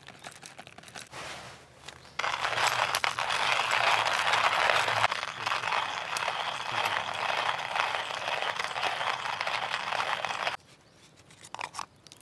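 Food sizzling in a hot pan, a steady crackling hiss that starts suddenly about two seconds in and cuts off abruptly near the end.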